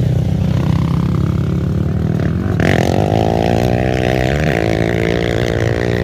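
Off-road racing engine revving hard close by, louder from about two and a half seconds in, its pitch rising and falling with the throttle over a steady low engine drone.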